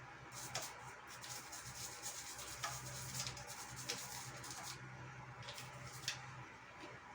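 A disposable toothbrush scrubbing dried grease off a bike's chain and sprocket with dishwashing liquid and water, in quick, irregular rubbing strokes.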